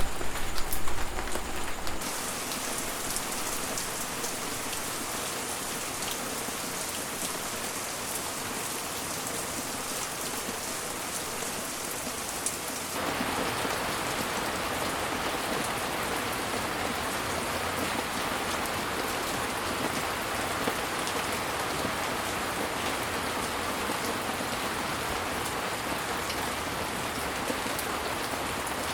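Heavy tropical rain falling steadily, an even hiss of many drops. About two seconds in a louder sound with a low hum cuts off abruptly into the rain, and about 13 seconds in the rain switches abruptly to a fuller, louder downpour.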